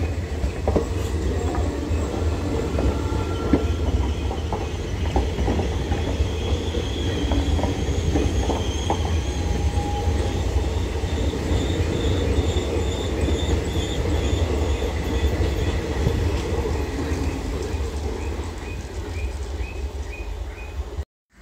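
Train coaches rolling along the track: a steady rumble of wheels with clickety-clack over rail joints and thin, high wheel squeal. It cuts off abruptly about a second before the end.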